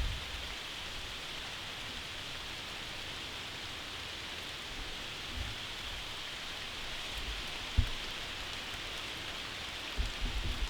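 Steady rain falling, heard as an even hiss, with one soft thump about eight seconds in and a few low knocks near the end.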